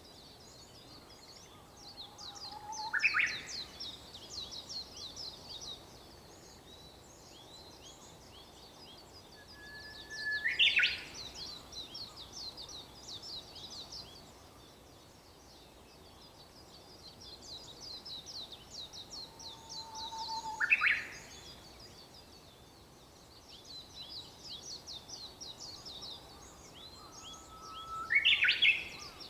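Japanese bush warbler (uguisu) singing its "hoo-hokekyo" song four times, each a held low whistle that breaks into a quick rising flourish. A steady high twittering of other small birds runs underneath.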